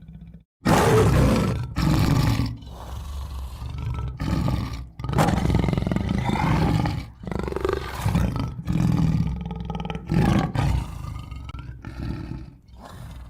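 Tiger roaring and growling in a run of loud, rough calls, about a dozen of them with short breaks between, starting just after a brief silence.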